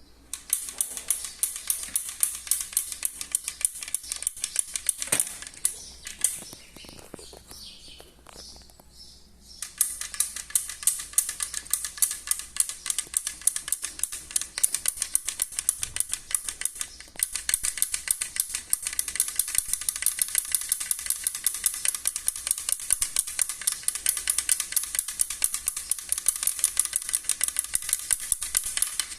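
Mountain bike giving off a rapid, steady clicking rattle, broken off for a few seconds about five seconds in, with a few separate knocks in the gap.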